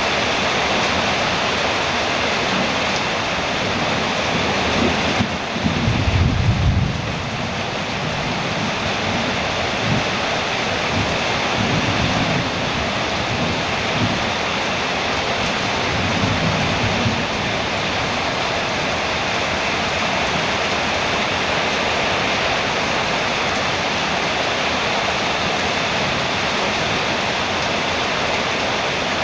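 Heavy rain drumming steadily on a metal roof, a dense even hiss. A low rumble of thunder swells about five seconds in and fades by seven seconds, with fainter rumbles a few times after.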